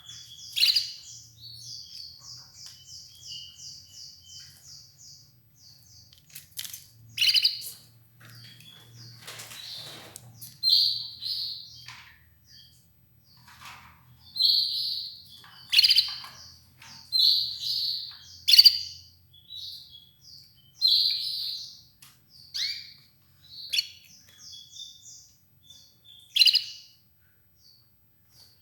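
Red ivory canary singing: a fast trill of evenly repeated high notes, then a string of loud, sharp chirps and short phrases every second or two.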